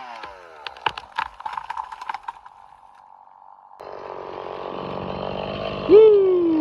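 Stihl chainsaw running down from full revs as the back cut on a notched tree finishes, followed by a run of sharp cracks and snaps of the wood giving way as the tree goes over. From about four seconds in a steady hiss sets in, and near the end a loud short tone rises and then slides down.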